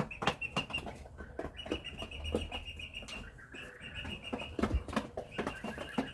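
Chickens pecking at feed: many quick, irregular taps. A steady high-pitched chirring comes and goes in the background.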